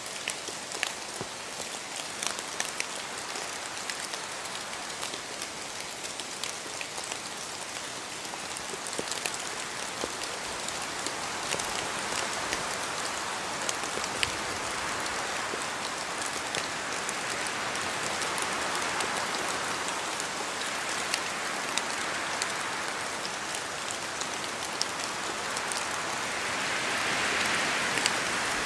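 Steady rain in a forest, with many separate drops ticking on leaves. From the middle onward the sound swells in slow waves, loudest near the end, as wind moves through the trees.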